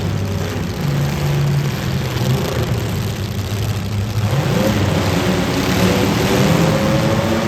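Demolition derby car engines running, then revving with their pitch climbing about four seconds in, over a steady rushing noise.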